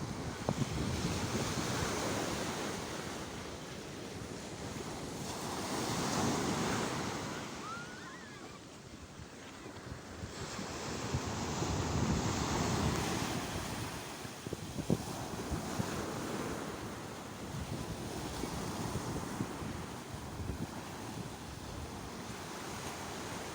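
Sea waves breaking and washing on the shore, the surf swelling and falling back in slow surges about every five or six seconds.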